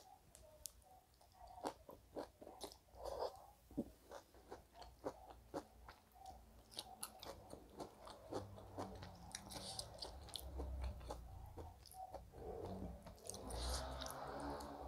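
A person chewing and biting food close to the microphone, with many quick wet mouth clicks and smacks as she eats rice, greens and meat by hand.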